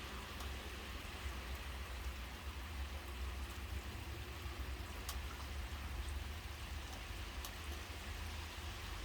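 Steady rain falling, with a few sharper drop ticks about five seconds in and again near the end, over a low rumble.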